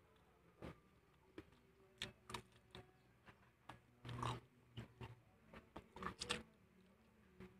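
A person chewing a mouthful of fried chicken and rice close to the microphone: irregular wet smacks and clicks of the mouth, loudest about four and six seconds in.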